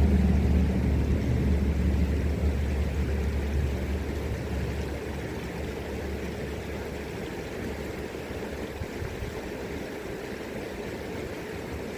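A motor engine's low hum, fading away over the first half, over the steady rush of the river.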